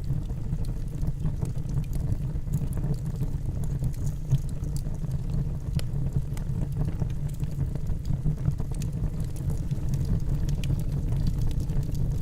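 Wood fire burning in a fireplace: a steady low rumble of the flames with scattered faint crackles from the burning logs.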